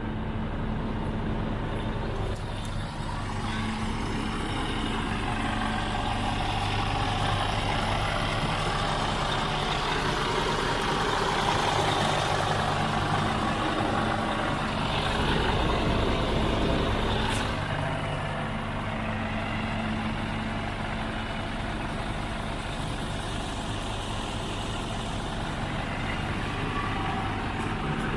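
Scania R490 truck's 13-litre straight-six diesel engine running steadily. It grows louder for several seconds around the middle, then settles back.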